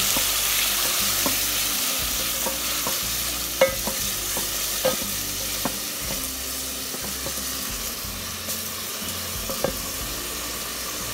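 Diced tomatoes and onions sizzling in hot oil in an aluminium pot, cooking until tender. A wooden spoon stirs them, knocking sharply against the pot a few times, loudest about three and a half seconds in.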